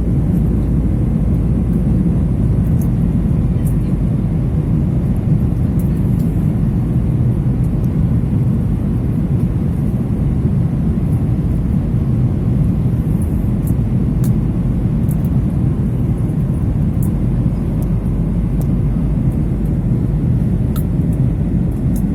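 Steady low rumble inside an airliner cabin in flight: engine and airflow noise, constant in level.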